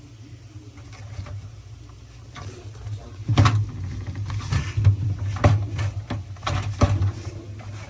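Clicks and knocks of a refrigerator part being twisted and worked loose by hand, over a low steady hum. The knocks come irregularly, several in the second half.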